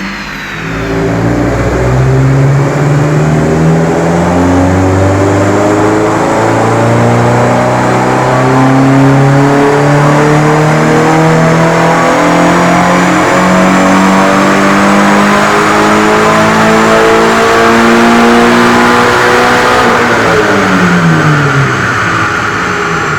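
Subaru BRZ's FA20 flat-four engine breathing through a Corsa intake and cat-back exhaust, making one long, smooth full-throttle pull. The revs dip for about a second, climb steadily without a gear change for nearly twenty seconds, then fall off as the throttle is lifted near the end.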